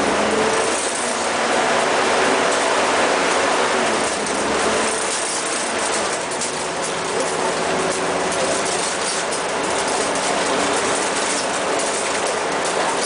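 Dennis Dragon double-decker bus running, its engine droning under steady road and body noise, with fine rattling and clicking throughout.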